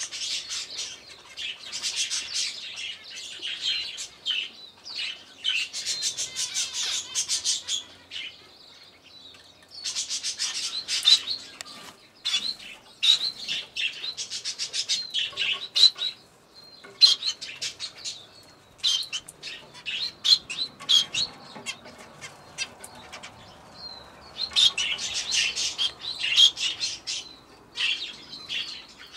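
A flock of small aviary birds chirping and twittering, many voices at once, in busy spells broken by short lulls.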